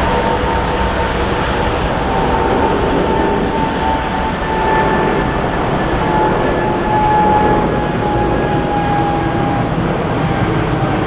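Boeing 777-300 twin jet engines passing: a steady loud rumble with a high whine that drifts slightly lower in pitch.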